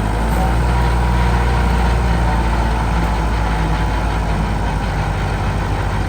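Tractor diesel engine running steadily, a loud, low drone.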